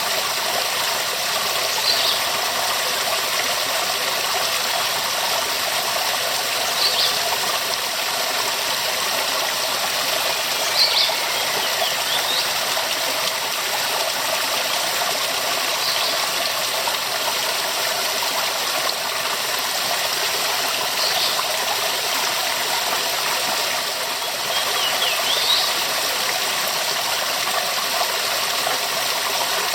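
Waterfall rushing steadily, an even hiss of falling water. Short high chirps come through it every four to five seconds.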